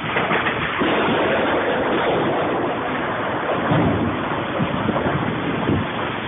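Heavy rain falling steadily, a dense continuous hiss.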